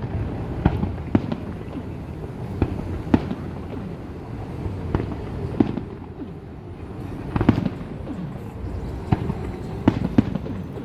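Aerial fireworks bursting: about a dozen sharp bangs at irregular intervals over a continuous low rumble, with a cluster of louder reports in the second half.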